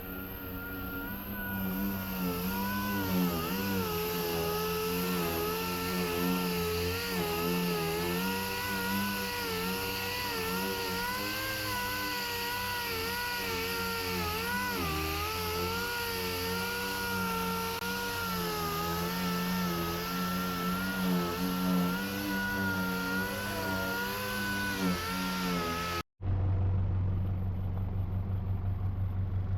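A power tool's motor running steadily at high speed, its pitch dipping and rising as it is pressed on and eased off the work, with a hiss over it. About 26 seconds in it cuts off abruptly to another machine with a deep hum and a fast rhythm.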